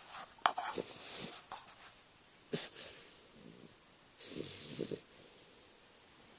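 English bulldog puppy snoring in its sleep: three rasping, wheezy breaths a couple of seconds apart, with a sharp click about half a second in.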